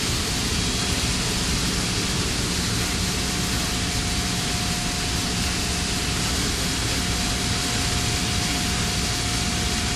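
Steady rushing noise of running industrial plant equipment, with a constant mid-pitched whine held throughout.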